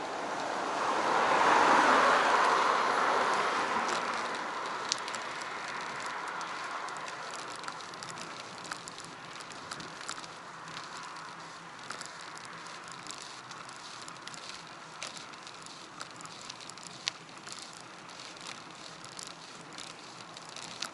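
Riding noise from a bicycle recorded by an action camera: a whooshing swell in the first few seconds that fades away, then a steady hiss with many small scattered clicks and rattles.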